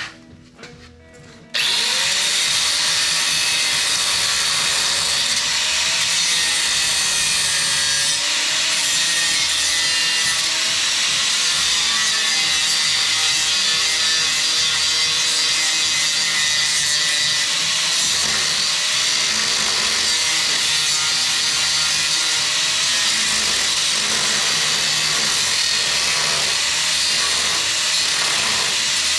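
A power tool starts abruptly about two seconds in and cuts steadily into the old steel truck frame: a loud, even hiss-like noise with a wavering whine beneath it.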